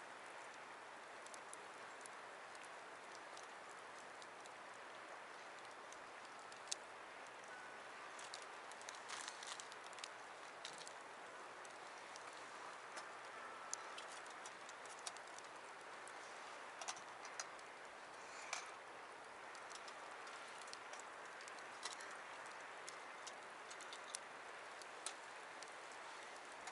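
Wood campfire crackling, with sharp pops and snaps at irregular intervals over a steady rushing noise of river water.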